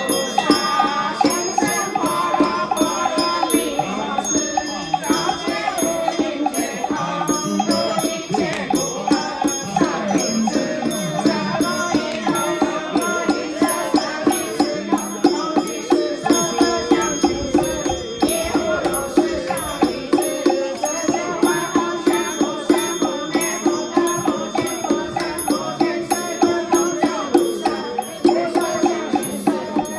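Ritual sutra chanting over a steady beat of percussion strikes, about two to three a second, with metallic ringing from bells.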